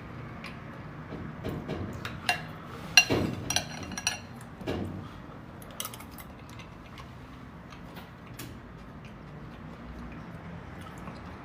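Cutlery clicking and clinking against a dish while eating, with a louder ringing clink about three seconds in.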